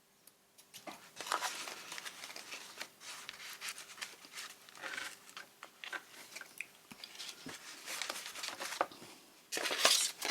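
Paper and card being handled: irregular rustling and crinkling with scattered light taps and clicks, and a louder rustle near the end.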